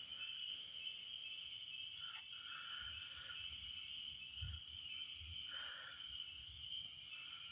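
Steady high-pitched chorus of crickets and other night insects, faint, with soft low rumbles now and then.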